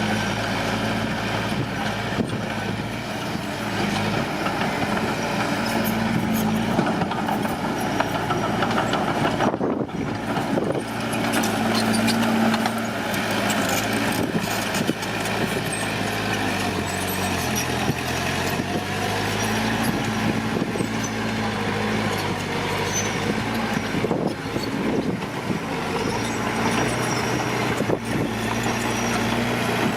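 Komatsu D41P bulldozer's diesel engine working under load, its pitch rising and falling as it pushes soil, over a continuous mechanical clatter with scattered knocks.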